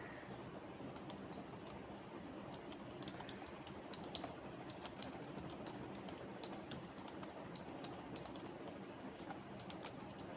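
Computer keyboard typing: quick, irregular keystrokes in short runs, over a steady low background noise.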